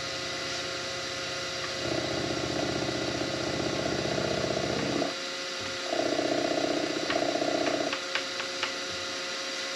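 Benchtop milling machine running with a steady hum. Over two stretches, about two to five seconds in and six to eight seconds in, a louder fine rattling rises as the chamfer bit is brought against the aluminum block. A few light clicks follow near the end.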